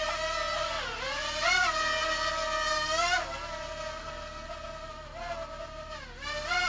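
Parrot Mambo minidrone's four small propeller motors buzzing in flight, a high whine whose pitch dips sharply about a second in and again near the end, then climbs back as the motors speed up.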